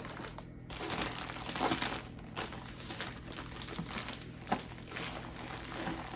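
Packaging crinkling and rustling as it is handled, loudest a second or two in, with a sharp click about four and a half seconds in.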